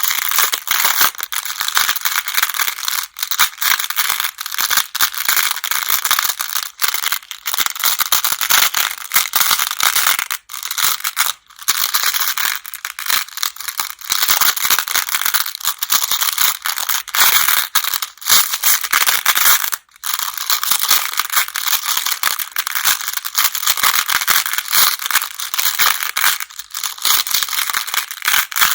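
Go stones clattering together in a dense, continuous rattle of many small clicks, with a few brief pauses.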